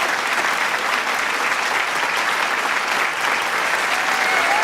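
Large crowd applauding steadily with dense clapping and cheering, a few shouts rising out of it near the end.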